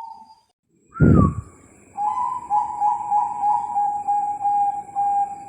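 Perkutut bangkok (zebra dove) singing: a run of short, evenly repeated coos, about two or three a second, beginning about two seconds in. A brief gap and a loud thump come just before the song.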